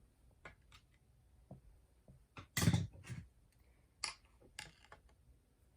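Scattered light clicks and taps of small hand tools and parts being handled while a chainsaw's ignition points are adjusted. A louder knock comes about two and a half seconds in.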